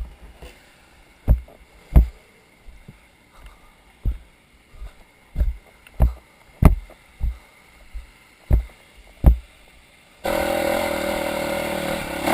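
Footsteps on rocky ground, a dull thud every half second to a second and a half. About ten seconds in, a dirt bike's engine cuts in, running steadily.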